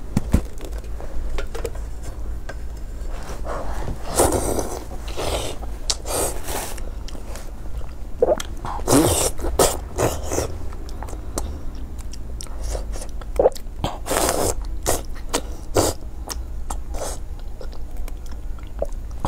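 Close-up eating sounds: biting and chewing of battered, sauce-coated fried food in irregular clusters of wet mouth noises, over a steady low hum.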